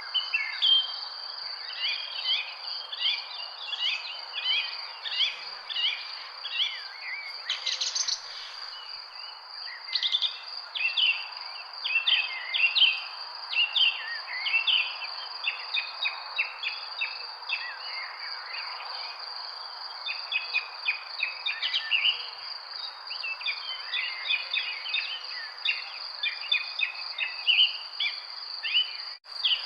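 Many small birds chirping and twittering in a dense, overlapping chorus over a steady high-pitched drone of insects such as crickets, with a soft background hiss. The sound cuts out for an instant near the end.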